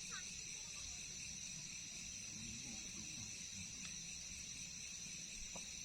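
Steady high-pitched chorus of crickets and other night insects, trilling without a break.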